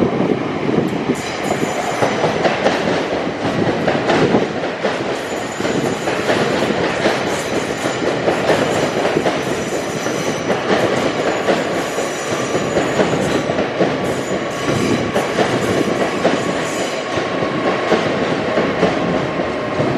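LNER passenger train running past, with a steady rumble of wheels on rail and rapid clicking over rail joints. A faint whine of wheels comes in during the second half.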